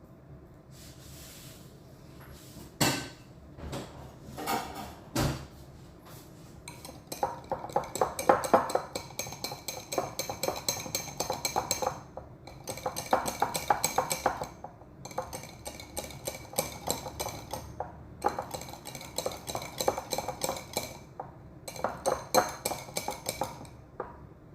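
A spoon stirring chicken in its marinade in a bowl: a few separate knocks against the bowl, then about five bouts of quick clinking and scraping, each a few seconds long with short pauses between.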